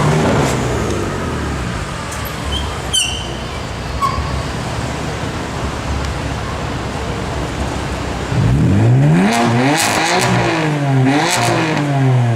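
BMW M4 Coupe's twin-turbo straight-six through an iPE aftermarket exhaust: its note falls away at the start under street traffic noise, then about eight seconds in it revs up and is blipped several times, the pitch rising and falling in quick swings.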